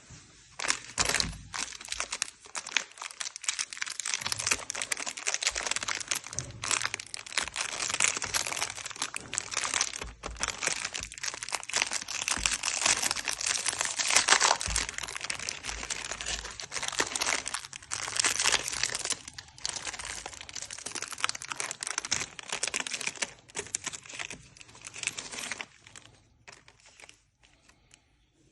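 Plastic candy wrappers being crinkled and torn open, a dense run of crackling with brief lulls, thinning out near the end.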